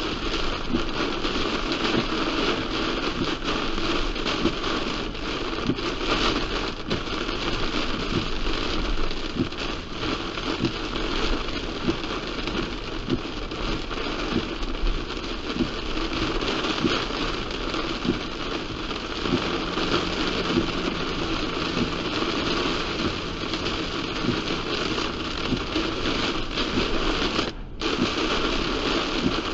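Heavy rain pelting a moving car, a dense steady patter of drops with fine crackling ticks. The sound drops out briefly about two seconds before the end.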